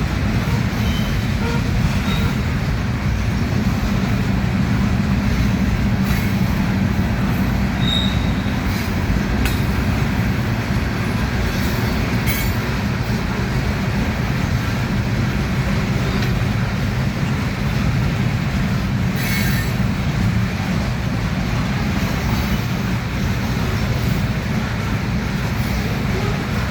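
Loaded gravel freight train rolling past: a steady heavy rumble of wheels on rail, with short high-pitched wheel squeals a few times and occasional sharp clanks.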